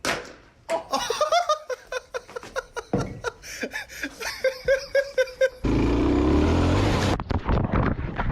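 Several people laughing hard in quick, rhythmic bursts. About five and a half seconds in, a loud, harsh, even noise cuts in for about a second and a half, then stops abruptly.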